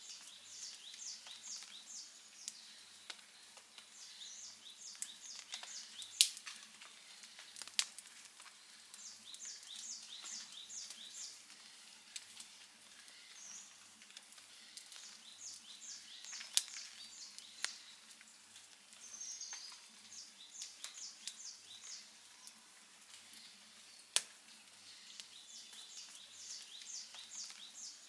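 Campfire wood crackling, with occasional sharp pops a few seconds apart. Behind it, short series of high, rapid chirps from an animal repeat every few seconds.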